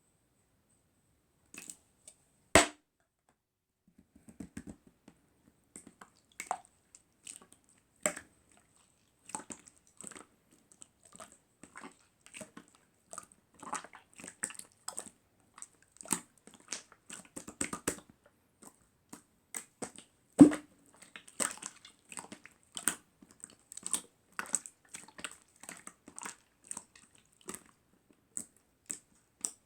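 Clear aloe soothing-gel slime being squeezed and worked by hand: a steady run of irregular sticky clicks and little pops, with a couple of louder snaps, one early on and one near the middle.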